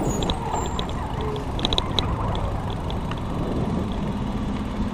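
Road traffic noise: motor vehicles running past, with a steady low engine rumble and a few short high clicks about two seconds in.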